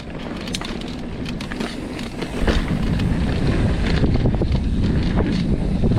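Mountain bike rattling and clattering down a dirt downhill trail over rough ground, with wind buffeting the microphone; the wind rumble grows louder about two and a half seconds in.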